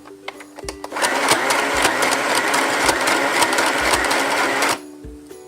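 Sew Simple portable household sewing machine running, stitching for about four seconds: it starts about a second in and stops shortly before the end. It is going back over a seam to double the stitch and reinforce it.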